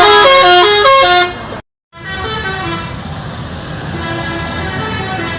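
Multi-tone musical bus horn playing a short tune of stepped notes, ending abruptly about a second and a half in. After a brief silence a second horn tune plays more softly, with engine and road noise underneath.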